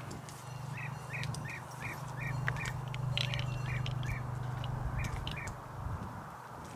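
A bird calling in a quick series of about a dozen short chirps, roughly three a second, with a brief pause near the end, over a low steady hum that fades out near the end.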